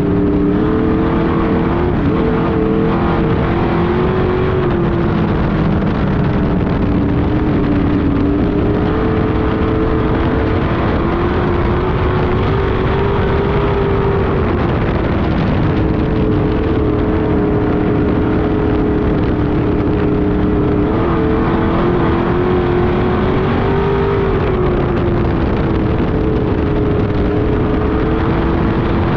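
Street stock race car engine running hard at racing speed, its note dipping and rising again every few seconds.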